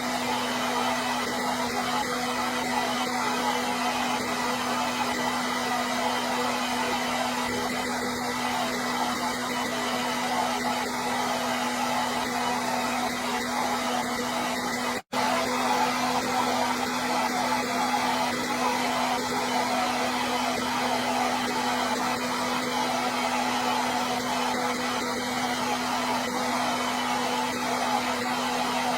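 Hair dryer running steadily: an even rush of air over a constant motor hum. It cuts out for an instant about halfway through, then carries on unchanged.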